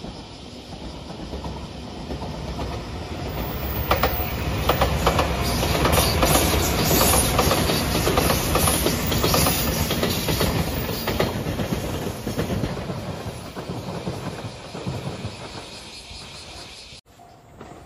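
JR Shikoku 8000 series electric limited express train passing at speed, its wheels clacking over the rail joints. The sound builds, is loudest in the middle, then fades away.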